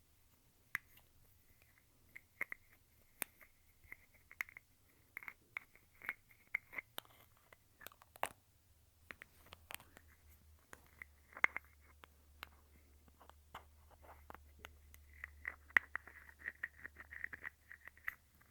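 Lipstick tubes handled close to the microphone: irregular small clicks and taps with short scraping rasps, as of caps and tubes being opened, twisted and closed.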